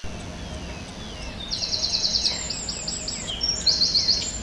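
A songbird singing: a few faint, thin falling notes, then from about a second and a half in, rapid high trills of short quick notes repeated phrase after phrase, over a steady background noise.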